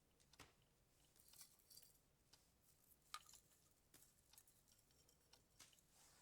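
Faint, irregular light clicks and taps of small objects being handled, with one sharper click about three seconds in.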